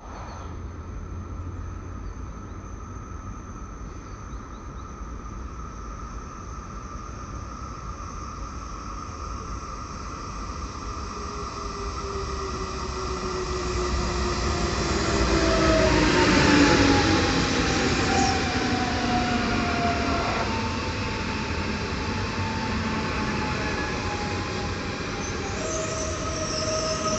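Electric multiple unit commuter train approaching along the platform, growing louder to a peak about two-thirds of the way in. Its motor whine then falls steadily in pitch over the rumble of the wheels.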